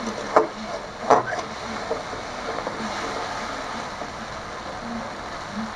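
Spice paste sizzling as it is fried down in oil in a karai, with a spatula scraping and knocking against the pan twice, about half a second and a second in.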